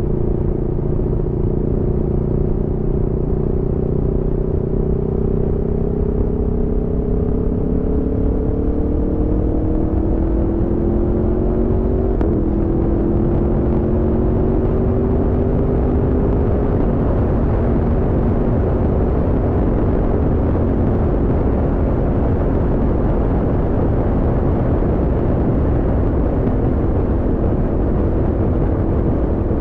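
Aprilia Tuono V4's V4 engine pulling along steadily, its note slowly climbing, with a shift in pitch about twelve seconds in. In the second half a rushing noise grows and covers the engine note.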